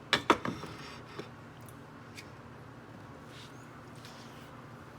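A few light clicks and taps from dishes and food being handled while a snack plate is put together, mostly in the first half-second, then a couple of faint ticks over quiet room tone.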